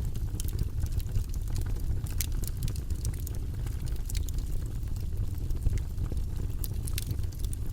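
Campfire crackling: irregular sharp pops and snaps of burning wood, several a second at uneven intervals, over a steady low rumble.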